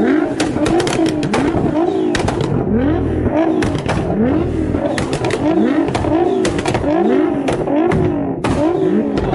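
A high-performance car engine revved in quick, repeated blips, its pitch rising and dropping about every three-quarters of a second, with sharp exhaust pops and crackles in between.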